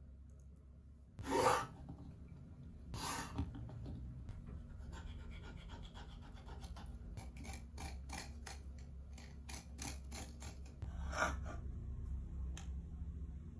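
Kitchen handling noises: three brief scraping swishes and a run of small clicks and taps over a low steady hum.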